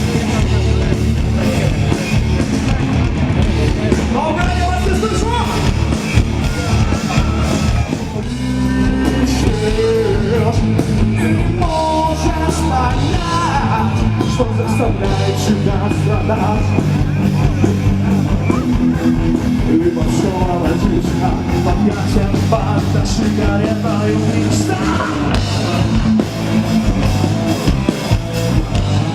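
Live rock band playing, with a singer's vocal over guitar, bass and drums; the low end thins out briefly about eight seconds in.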